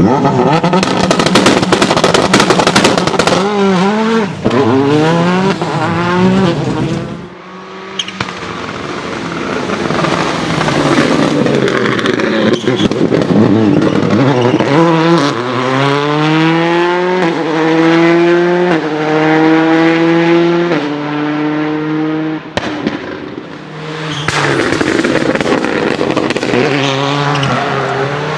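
Skoda Fabia WRC rally car's turbocharged four-cylinder engine revving hard, climbing in steps through several upshifts, with rapid crackling pops from the anti-lag system near the start and near the end.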